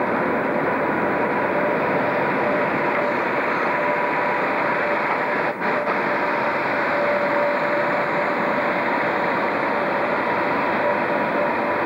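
Locomotives standing at a station platform with their machinery running: a steady hum and rumble with two faint steady whines, and a brief dip in the sound about halfway through.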